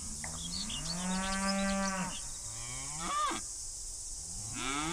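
Cows mooing: one long moo of about two seconds, then a shorter moo that rises and falls about three seconds in, and another starting near the end.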